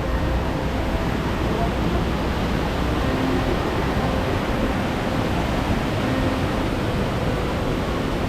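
A steady rushing noise with faint, scattered voices underneath.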